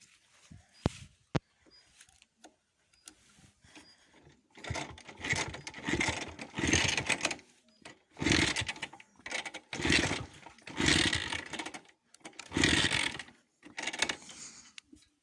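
Minsk two-stroke motorcycle being kick-started: two sharp clicks about a second in, then about seven kicks in a row, each a second-long burst of the engine turning over, without it settling into a steady run.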